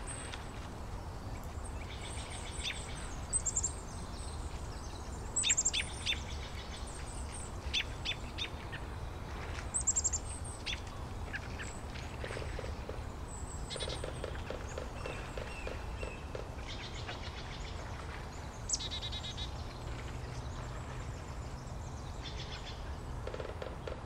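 Scattered short, high chirps of small birds every few seconds, with a few lower rapid pulsed calls, over a steady low rumble.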